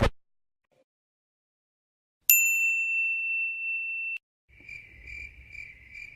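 A single high bell ding rings out about two seconds in and cuts off abruptly about two seconds later. It is followed by the stock crickets-chirping sound effect, a cricket chirping in even pulses about two or three times a second.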